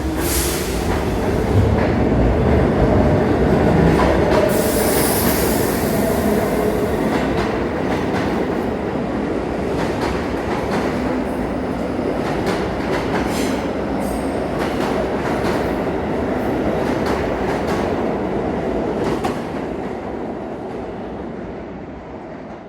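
R46 subway train running on the rails, wheels clacking over rail joints, with high wheel squeal about a second in and again around five seconds in. The sound fades over the last few seconds.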